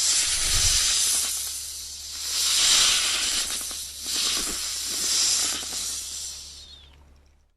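An animal hissing in three long, breathy swells, each about a second or more, fading out near the end.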